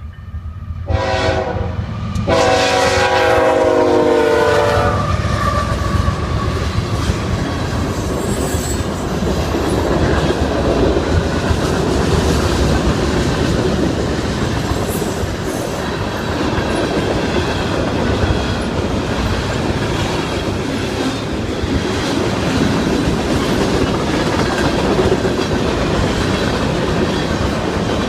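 A train's horn sounds two blasts, a short one about a second in and a longer one straight after, warning at the grade crossing. Then the fast-moving train passes, a loud steady rumble with wheels clicking over the rail joints.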